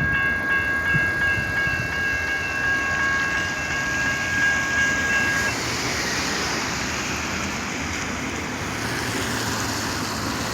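Long train rolling past a grade crossing, a steady dense rumble of wagons on the rails. A high steady ringing tone sits over it and cuts off about five and a half seconds in.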